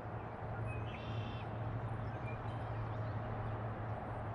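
A bird gives one short call about a second in, followed by a fainter chirp, over a steady outdoor background hiss with a low hum.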